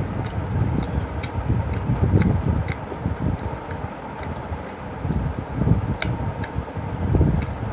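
Close-miked chewing of a mouthful of egg roll: irregular wet mouth clicks over an uneven low rumble.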